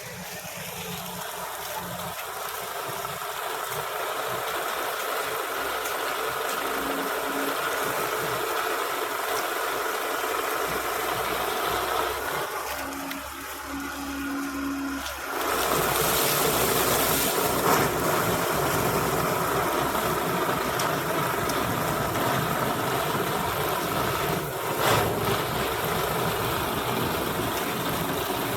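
Sugarcane harvester running with a steady engine and machine noise. It dips briefly and then grows louder about halfway through.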